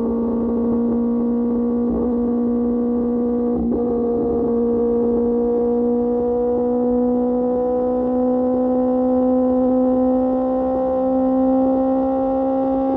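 QJ Motor SRK600 inline-four engine running through an SC-Project exhaust at a steady cruise, its note rising slowly as the bike gains speed.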